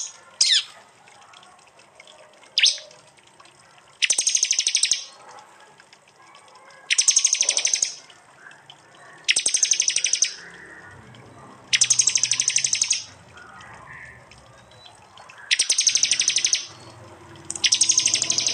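Prinia (prenjak) giving its loud, rapid ticking 'tembakan' call: about a second of fast high clicks, repeated six times at roughly two- to three-second intervals, with a couple of short single notes between the first bursts.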